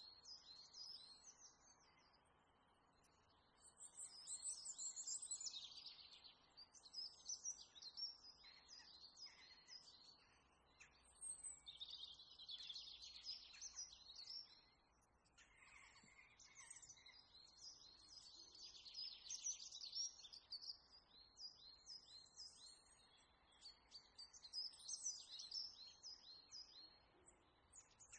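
Faint chirping of small birds, in quick twittering runs with short pauses between them.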